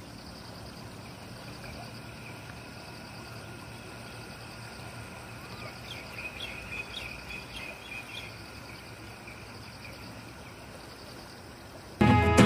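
Birds chirping and calling over a steady rush of water from the overflowing lake, with a busier run of short chirps in the middle. Music cuts in suddenly at the very end.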